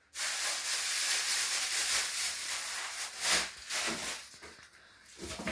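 A loud, steady hiss that starts abruptly, holds for about three seconds, then turns uneven and fades away.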